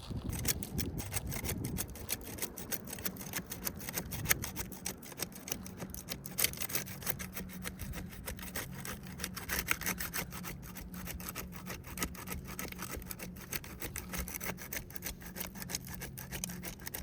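A flat pry tool scraping and crackling under a glued-down asphalt composition shingle as its sealant bond is broken and the shingle is worked loose, with gritty granule scraping. A steady low hum runs underneath.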